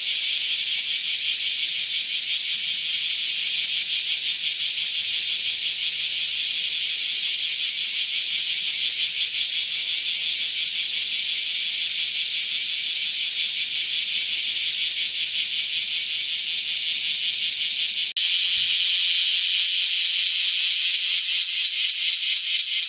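Cicada calling: a continuous high-pitched rasping buzz made of very rapid pulses. About three-quarters of the way through, the faint low background drops away while the buzz goes on.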